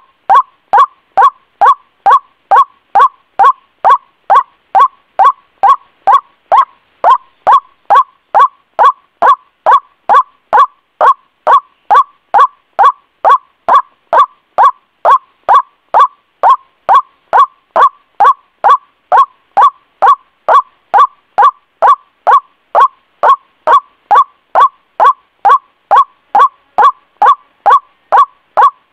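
White-breasted waterhen (ruak-ruak) call: a loud, short croaking note near 1 kHz, repeated evenly about twice a second. It is a looped lure recording used to call the bird in.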